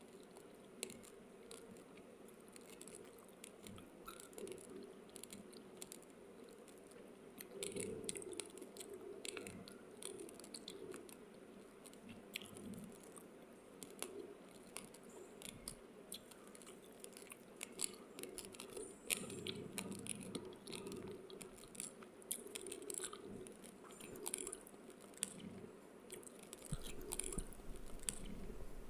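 Raw basmati rice grains being chewed: a run of small, irregular crunches and clicks, with louder bouts of crunching now and then.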